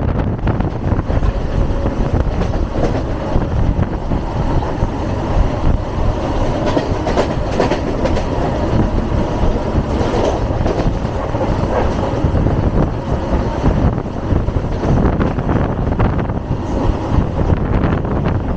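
Passenger train running along the track, heard from on board: a steady loud rumble with wheels clattering over the rail joints.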